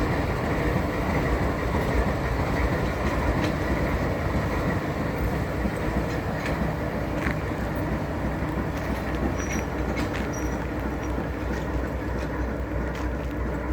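Locomotive 109 and its old railroad cars rolling along the track: a steady rumble with scattered sharp clicks from wheels and couplings, and two short faint high squeals a little past the middle.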